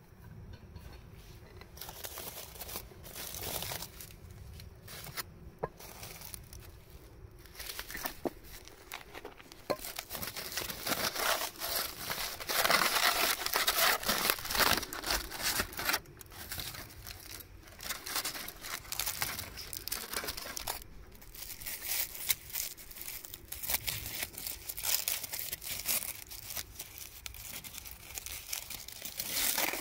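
Crinkling and rustling of something crisp being handled, in irregular bursts that are loudest about halfway through.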